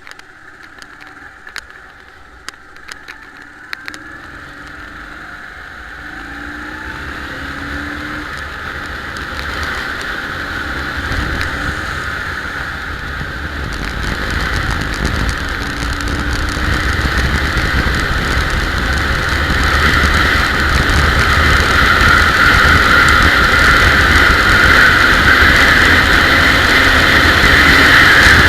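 Ural motorcycle under way, its engine and ride noise building steadily louder throughout, with a few sharp clicks in the first four seconds.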